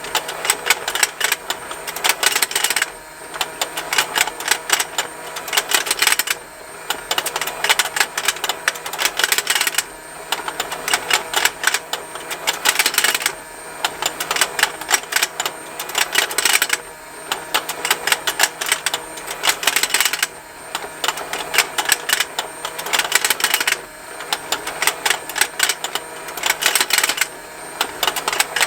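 Plastic fishing-game toy running: a fast, continuous ticking of its small motor and gears, with the plastic fish mouths snapping, in runs of about three seconds broken by short lulls as the pond rotates. A faint steady motor hum sits underneath.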